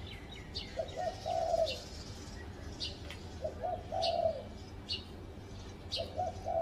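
Spotted dove cooing: three phrases about two and a half seconds apart, each two short notes then a longer drawn-out coo. Small birds chirp high in between.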